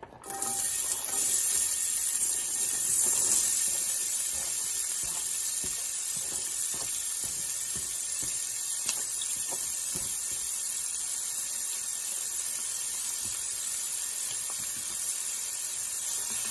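Chopped onions and ginger sizzling in hot oil in a frying pan. The sizzle starts suddenly just after the start, is loudest over the first few seconds, then settles into a steady hiss.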